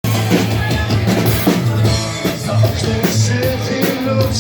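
Live rock band playing an instrumental intro: guitars over a drum kit keeping a steady beat.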